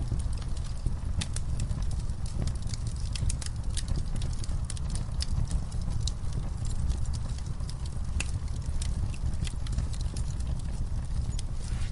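Campfire burning: a steady low rumble of flames with irregular sharp crackles and pops of burning wood.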